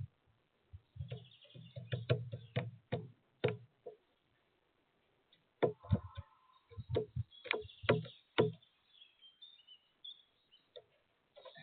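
A woodpecker pecking and hammering at sunflower seeds on a bird feeder: irregular sharp knocks and taps, some with a dull thud. They come in two bursts, the second starting about halfway through.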